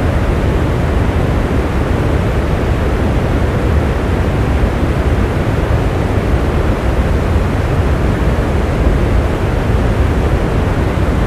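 Steady rain: an even, unbroken rushing noise, heaviest in the low end, with no single drops or other events standing out.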